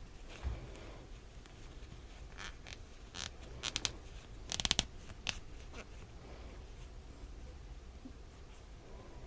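Plastic yarn needle squeaking and rasping as it is forced through tight crochet stitches: a series of short scratchy strokes, the loudest a few seconds in, after a soft thump near the start.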